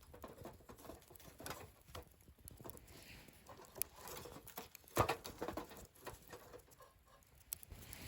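Wood fire burning in a fire stand, crackling with irregular small pops and snaps. The loudest sharp crack comes about five seconds in.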